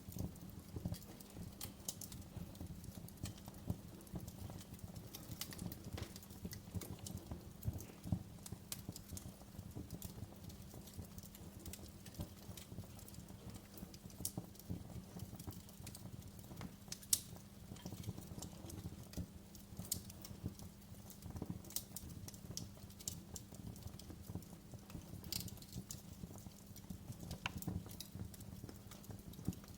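Wood fire in a fireplace crackling, with irregular sharp pops over a steady low rumble of the flames; one pop stands out louder just past the halfway point.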